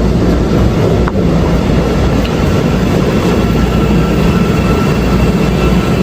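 A train running on the rails: a steady heavy rumble with a faint high whine over it.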